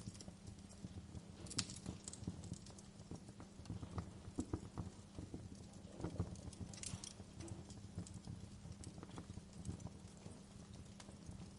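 Wood fire crackling in a fireplace: faint, irregular pops and snaps over a steady low rumble.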